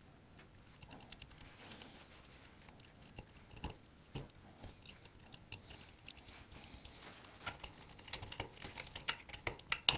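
Irregular light clicks and taps, sparse at first and coming thicker and louder over the last few seconds.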